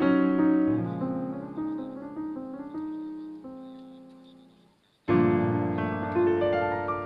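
Background piano music. A phrase of held notes fades away to almost nothing about five seconds in, then a new piano passage starts abruptly.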